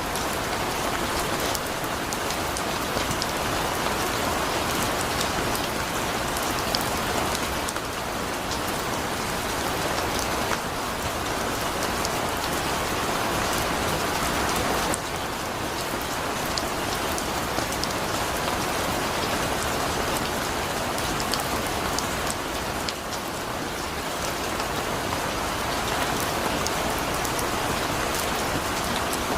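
Heavy rain falling steadily, with a dense hiss of rain and scattered sharper drop ticks on surfaces.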